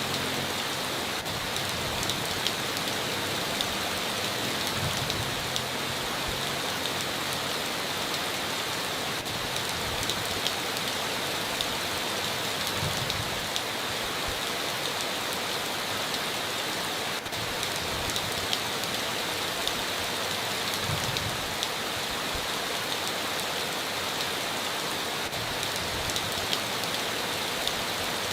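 Heavy rain pouring steadily on a tin roof, a dense even hiss with scattered sharper drop ticks.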